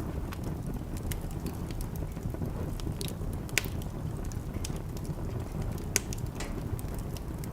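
Wood fire in a fireplace crackling, with irregular small pops over a steady low rumble; two sharper pops stand out about three and a half and six seconds in.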